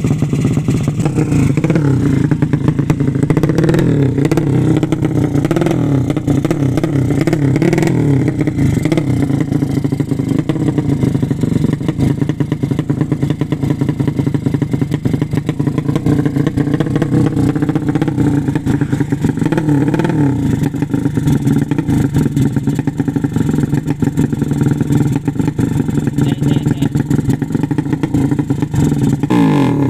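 A tuned 200 cc drag-racing motorcycle engine running steadily, its pitch rising and falling in places with light throttle.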